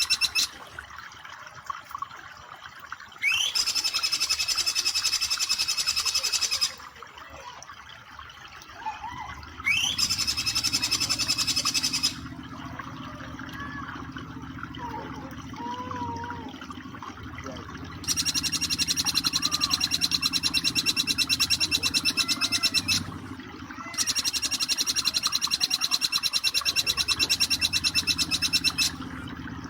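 Jingjing petulak (bar-winged flycatcher-shrike) giving its rapid 'nembak' trill, four long bursts of very fast repeated notes, each opening with a quick upward sweep. Between the bursts come softer scattered chirps over a low steady background.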